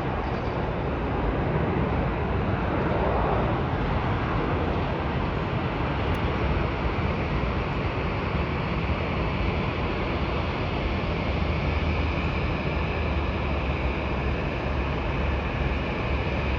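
Steady roar of jet aircraft engines, with a faint high whine growing from about twelve seconds in.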